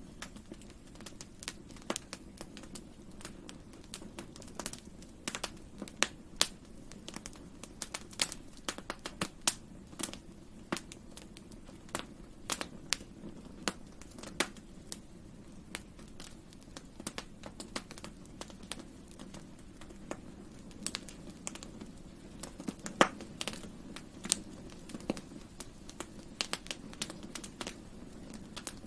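Wood fire crackling: frequent irregular sharp pops and snaps over a steady low hiss of burning.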